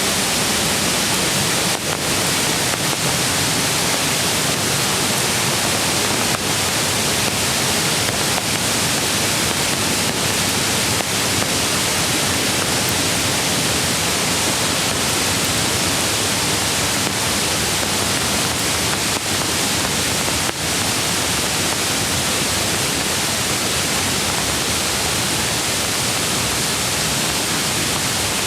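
Mountain creek water rushing steadily over rocks, a constant full hiss with a few faint taps scattered through it.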